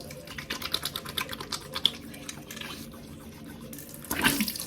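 Bathroom sink tap running, water splashing and pattering in the basin, louder and fuller about four seconds in.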